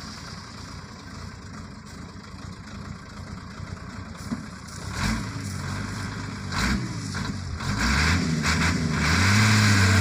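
Sugarcane truck's engine revving, its pitch rising and falling repeatedly, growing louder over the last couple of seconds.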